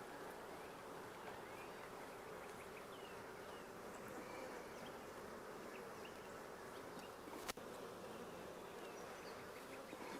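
Honey bees buzzing steadily around an opened hive, a faint, even hum, with a single sharp click about three-quarters of the way through.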